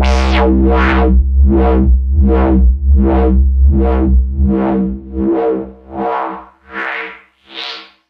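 Aggressive dubstep synth bass from Arturia Pigments, built on an FM bass sample, wobbling in a steady rhythm of about one filter sweep every three-quarters of a second. About five seconds in, the deep low end drops away as the second filter cuts the low frequencies, leaving thinner, separated wah pulses.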